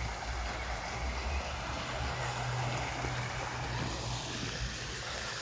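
Wind buffeting the microphone outdoors: a steady low rumble under an even hiss.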